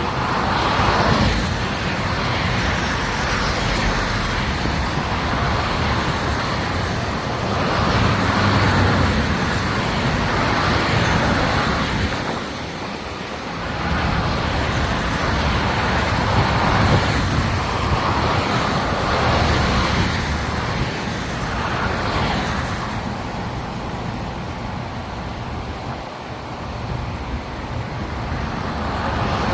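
Highway traffic: steady engine and tyre noise from motor vehicles, swelling and fading every few seconds.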